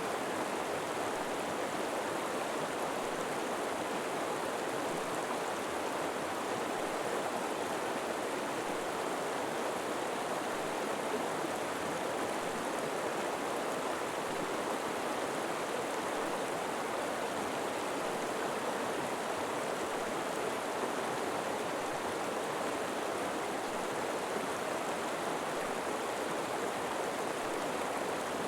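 River water flowing steadily over rocks: a constant, even rushing.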